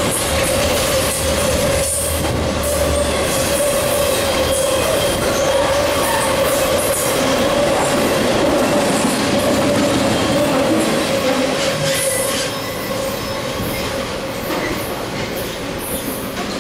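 Double-stack container cars and trailer-carrying cars of a fast intermodal freight train rolling past: a steady rumble and clatter of steel wheels on rail, with a high wheel squeal that holds one pitch. The noise eases off a little about three-quarters of the way through.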